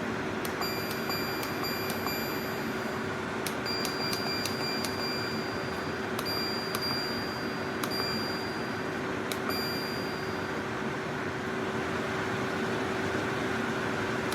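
Portable air conditioner running: a steady airflow rush with a constant low hum. Light metallic tings sound over it at irregular intervals, about a dozen in the first ten seconds, each one ringing briefly.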